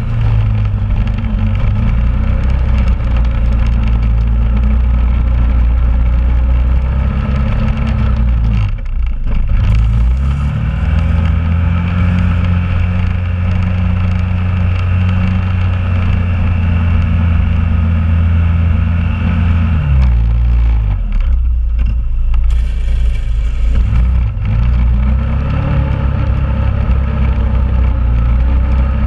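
2001 Honda Rubicon ATV's single-cylinder engine running while plowing snow, its pitch changing with throttle as it works back and forth. It drops low about nine seconds in, climbs and holds higher for about ten seconds, drops back around twenty seconds, and climbs again near the end.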